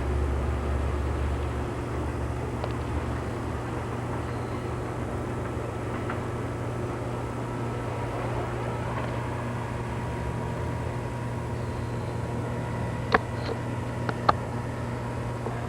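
Steady low rumble of idling EMD diesel freight locomotives, with a few sharp metallic knocks near the end.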